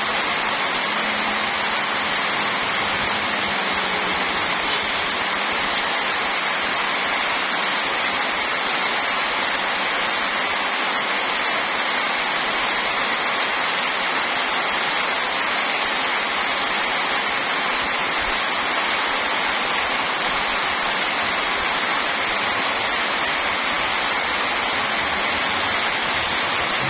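Heavy tropical rain pouring steadily onto the ground and puddles, an even, unbroken rush of rain with no thunder.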